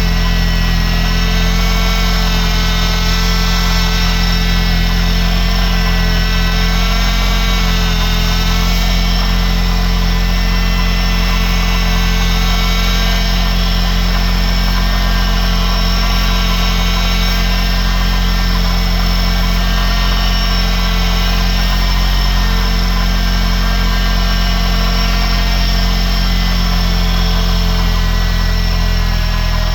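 Cosworth engine with Phase 2 cams idling from cold, running steadily with a layered whine over the engine note, during a vacuum-leak check.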